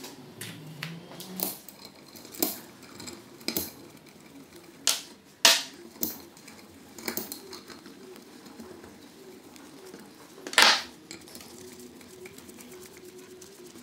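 Metal tools and parts clinking and knocking in a string of separate sharp strikes, two of them louder, one about five seconds in and one about ten seconds in, as the engine is taken apart.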